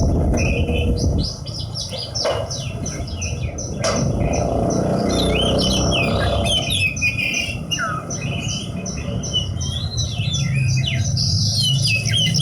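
Horsfield's bushlark (branjangan, Mirafra javanica parva) singing a fast, unbroken run of high chirps and trills over a steady low rumble.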